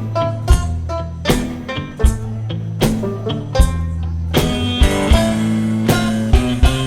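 Instrumental break of a folk-blues song: guitar playing over a steady foot-drum beat, about one low thump every three-quarters of a second.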